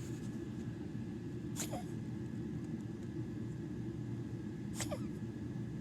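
A dog with a collapsed trachea and enlarged heart giving two short, sharp coughs about three seconds apart, over a steady low rumble.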